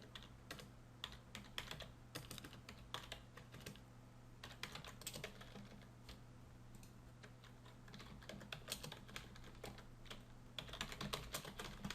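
Typing on a computer keyboard in quick, irregular runs of key clicks with short pauses, over a faint steady hum.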